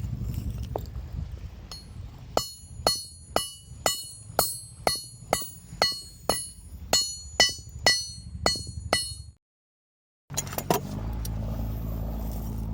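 Hand hammer forging steel: a run of about fourteen ringing metal blows, about two a second, which stops suddenly. A steady low rumble follows.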